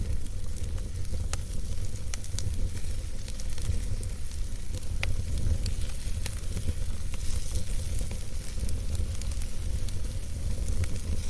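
Campfire burning, with scattered sharp crackles and pops over a steady low rumble of the flames.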